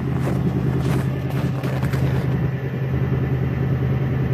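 Ford F-150's 5.4-litre V8 idling steadily just after a cold start in deep cold, about −21 °C.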